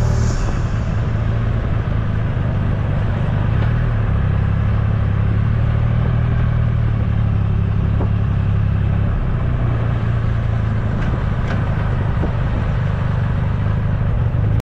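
Triumph Rocket 3 GT's inline three-cylinder engine running steadily as the motorcycle is ridden slowly along the road, heard from the bike-mounted camera. The sound cuts off suddenly near the end.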